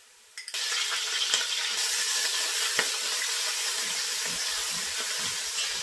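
About half a second of near silence, then ginger-garlic paste sizzling steadily in hot oil with fried onions, stirred with a spatula that scrapes and taps a few times against the metal pot.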